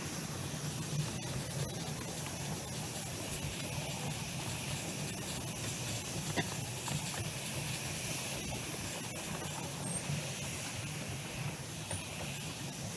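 Light-railway train running, heard from on board: a steady hiss and low rumble, with a few sharp clicks from the wheels over the track.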